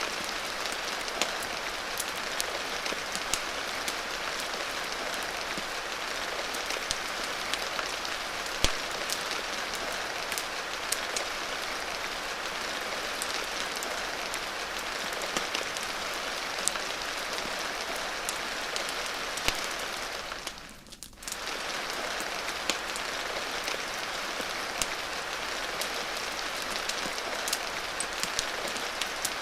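Steady rain hiss with scattered sharp crackling pops, typical of a rain-and-fireplace ambience mix. The sound drops away briefly, for about a second, about two-thirds of the way through.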